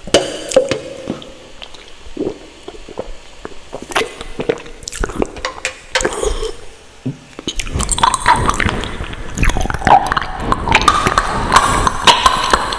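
Close-miked wet mouth sounds of eating ramen noodles: sticky clicks, smacks and squishes of chewing. They grow denser and louder a little past halfway.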